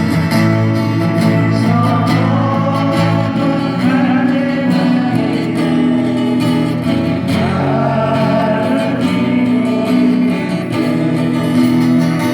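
Acoustic guitars strumming a steady chordal accompaniment, with a gliding melody line above it that swells twice.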